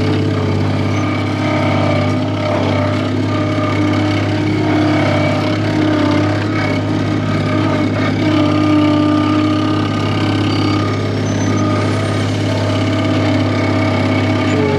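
Skid steer engine running at a steady idle.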